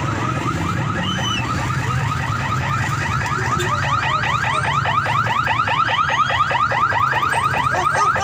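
Vehicle anti-theft alarm sounding a fast run of rising chirps, about five a second, growing louder partway through and stopping abruptly near the end, over a steady low rumble of engines and traffic.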